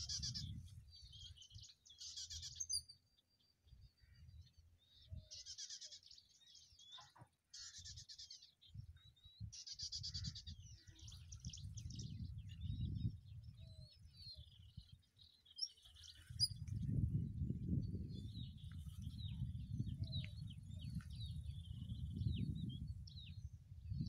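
Small birds calling in short bursts of rapid, high chattering notes, then thin scattered chirps in the last third. A low rumble on the microphone grows loudest in the second half.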